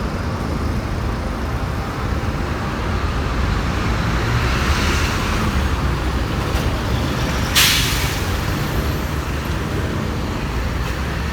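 Heavy road traffic with bus and truck engines running past in a steady rumble, swelling for a couple of seconds near the middle. About two-thirds of the way through comes one short, sharp hiss of air, like a bus's air brakes releasing.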